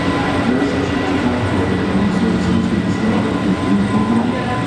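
Passenger train pulling slowly out of the station past the platform: a steady rumble of the carriages rolling on the rails, with a thin steady whine over it.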